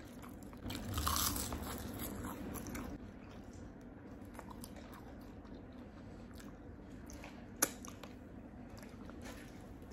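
Crisp roasted seaweed (nori) sheet being bitten and crunched, then chewed. The crunching is loudest for the first couple of seconds and quieter after, with a single sharp click about seven and a half seconds in.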